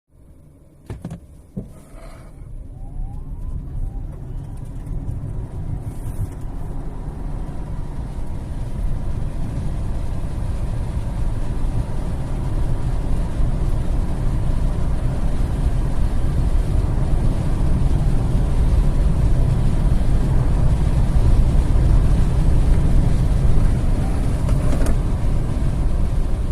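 A Fiat 500e electric hatchback accelerating hard from a standstill toward 100 km/h. There is no engine note, only road and wind noise that grows steadily louder as speed builds, with a faint rising whine in the first few seconds. A couple of sharp clicks come about a second in.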